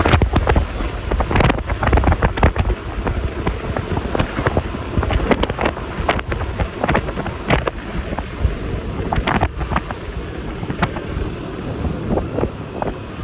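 Wind buffeting the phone microphone on a moving scooter, with road and tyre noise underneath and many short sharp knocks and gusts throughout.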